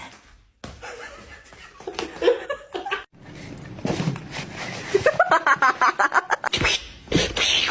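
A person laughing, breaking into a run of quick, rhythmic laughs about two-thirds of the way through.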